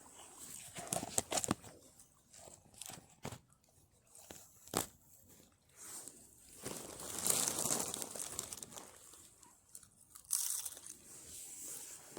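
Irregular crinkling and crunching with scattered sharp clicks, louder in two stretches around the middle and near the end.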